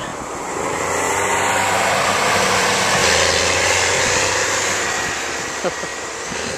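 Tractor driving past on the road: its engine and road noise grow louder and then fade away over a few seconds.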